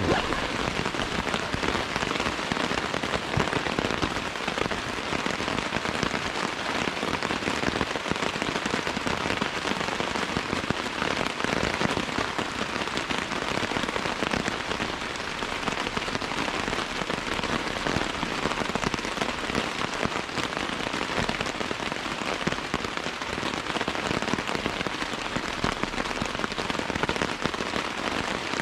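Heavy cloudburst: rain falling hard and steadily, a dense, even rush of drops.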